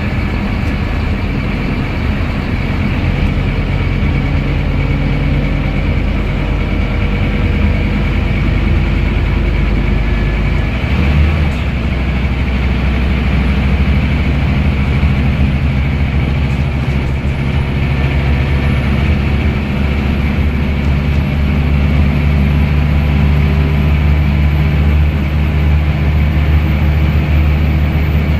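Scania N230UD double-decker bus's engine and ZF Ecomat automatic drivetrain running under way with a steady drone. The engine note changes about 11 seconds in, and a faint high whine climbs slowly through the second half.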